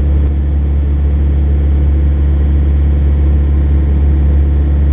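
Steady, loud low rumble of an idling engine, unchanging throughout.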